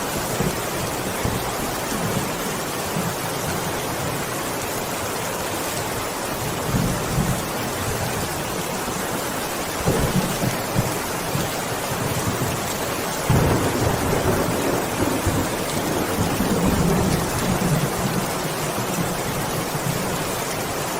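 Heavy rain falling steadily, with low rumbling swells about ten seconds in and again for several seconds from about thirteen seconds.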